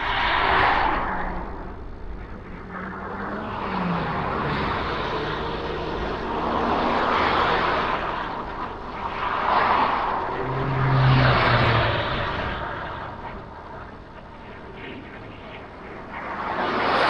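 Road traffic passing while riding along a road: a rushing noise that swells and fades every few seconds as vehicles go by, with engine hum rising and falling in pitch twice, loudest about eleven seconds in.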